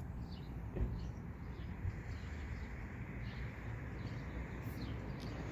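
Faint, scattered chirps of small birds over a steady low rumble of open-air background noise.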